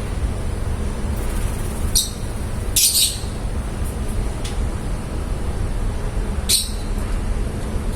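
Lovebirds giving a few short, high-pitched chirps and squawks, the loudest about three seconds in and another near seven seconds, over a steady low rumble.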